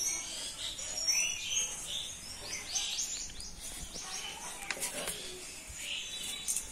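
Small birds chirping and twittering, with short calls and quick runs of chirps throughout and a few sharp clicks.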